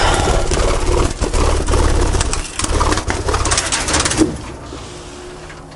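Aviary birds flapping their wings in a flurry, a rapid run of wingbeats over a low rumble, dying away after about four seconds.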